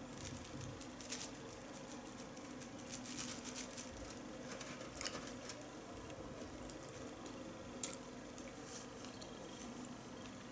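Sushi roll eaten with chopsticks: soft wet chewing and mouth noises with a few short sharp clicks, over a faint steady hum.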